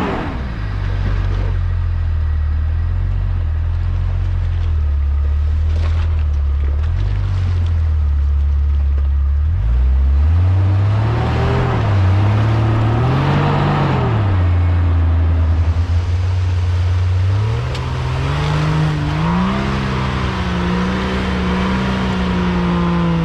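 Off-road 4x4's engine running steadily, its revs rising and falling a few times about halfway through and climbing again near the end. A brief knock is heard about six seconds in.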